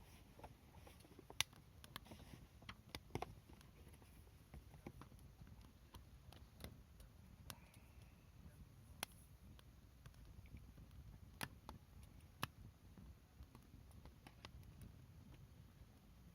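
Wood fire crackling: irregular small ticks and pops, a few sharper ones standing out, over a faint low rumble.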